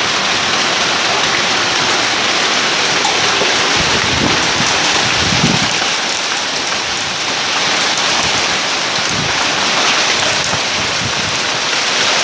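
Heavy rain and hail pelting steadily on a roof in a thunderstorm, with a low rumble about four to six seconds in.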